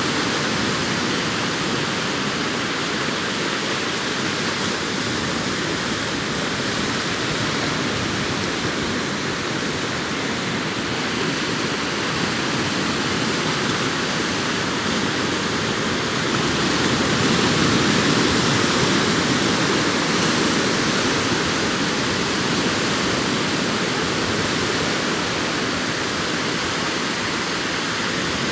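Sea waves breaking and washing up a beach: a steady rush of surf that swells a little past the middle.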